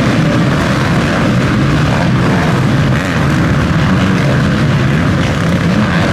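Motocross motorcycle engines running hard at high revs, a loud steady buzz that holds without a break.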